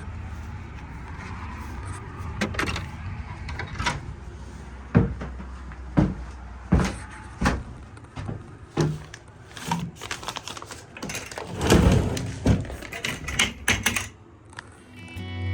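Irregular clicks and knocks, a dozen or more spread unevenly with a busier cluster near the end, over a low steady hum.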